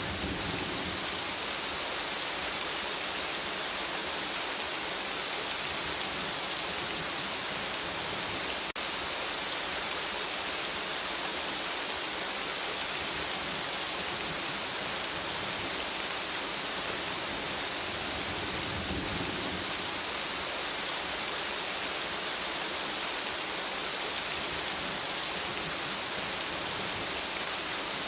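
Steady rain falling on forest foliage, an even hiss, with a brief low rumble about two-thirds of the way through.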